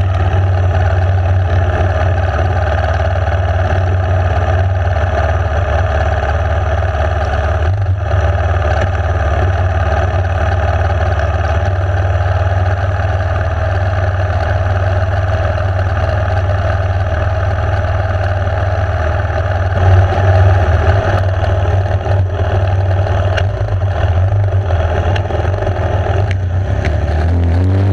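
Enduro motorcycle engine running steadily under way, with its pitch rising briefly near the end.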